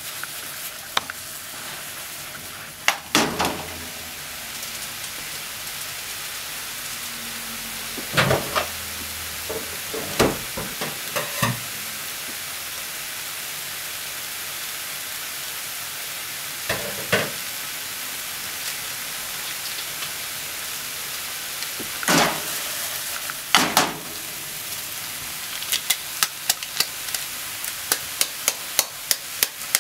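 Cabbage and enoki mushrooms sizzling steadily in a nonstick frying pan, with a handful of short scrapes and knocks as they are stirred and tossed. There is a quick run of light taps near the end.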